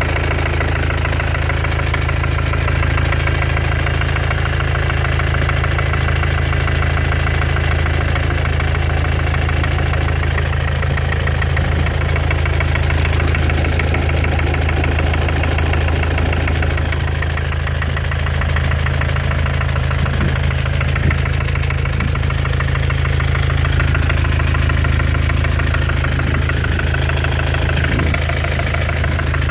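Mercedes OM651 four-cylinder bi-turbo diesel idling with a light, steady knock from somewhere on top of the engine, like someone tapping with a little hammer. The engine otherwise runs smoothly; the owner calls the knock seemingly harmless but cannot place its cause.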